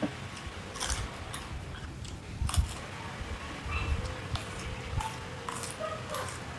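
Close-up crunching and chewing of raw vegetables, with irregular crisp crunches about once a second.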